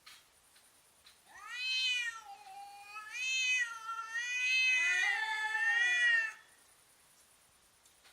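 Domestic cat giving a long, drawn-out threat yowl that wavers up and down in pitch. It starts about a second in, dips briefly, then swells again and cuts off after about five seconds: the caterwaul of cats in a standoff.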